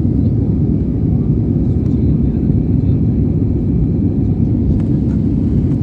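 Steady low roar of an airliner's cabin in flight: engine and airflow noise, even and unchanging.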